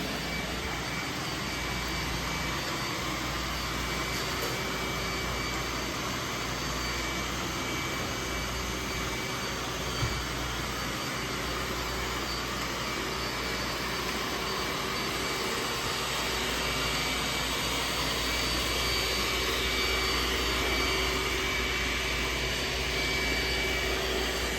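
Roomba robot vacuum running steadily, its motor noise carrying a steady whine, with a single short knock about ten seconds in.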